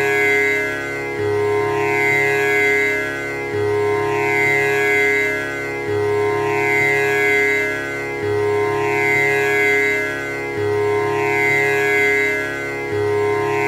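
Tanpura drone: its strings are plucked one after another in a cycle that repeats about every two and a half seconds, with the low string sounding at the start of each round. Each pluck rings on with shimmering, sweeping overtones, and the notes blend into a continuous drone.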